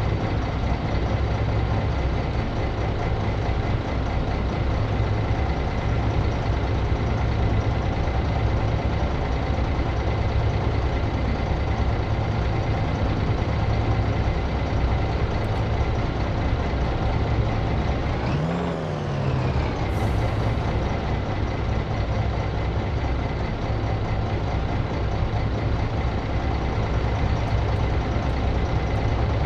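Blue Bird bus engine running steadily, with a brief rise and fall in engine pitch about two-thirds of the way through, followed by a short sharp hiss.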